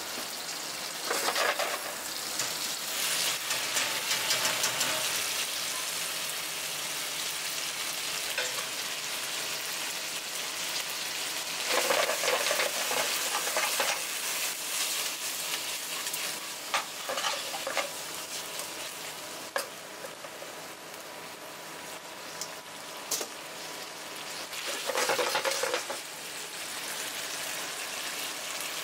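Spaghetti stir-frying in a hot pan: a steady sizzle that swells louder several times as the noodles are tossed and stirred. A few sharp clicks of a utensil on the pan come about two-thirds of the way through.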